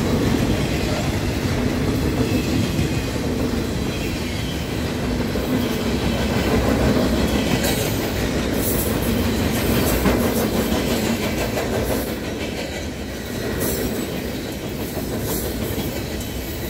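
Loaded flatcars of a freight train rolling steadily past a grade crossing: a continuous rumble of steel wheels on rail, with sharp clicks as the wheels cross rail joints several times through the middle and later part.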